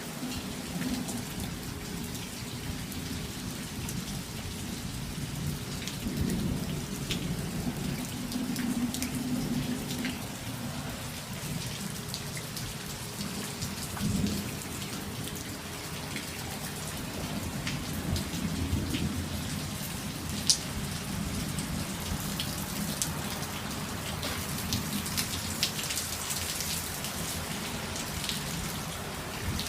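Heavy monsoon rain falling steadily, with many sharp drop hits close by. A low rumble swells and fades several times, and one loud drop strikes about two-thirds of the way through.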